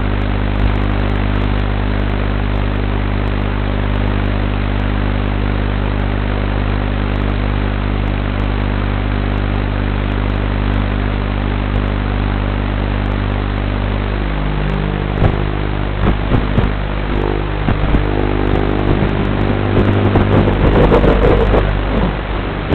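FPV racing quadcopter's motors and propellers, a steady hum for about fourteen seconds, then shifting in pitch and surging unevenly as the throttle changes.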